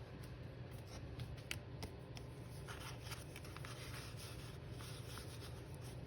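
Faint handling of paper and craft materials at a table: a few light clicks and a short paper rustle over a low steady hum.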